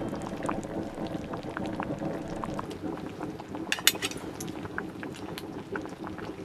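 Food bubbling in a cooking pot, a steady crackle of small pops, with a few sharp metal clinks about four seconds in.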